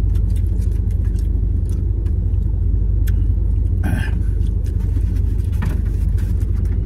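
Steady low rumble of a vehicle heard from inside it, with scattered small clicks and a brief rustle about four seconds in.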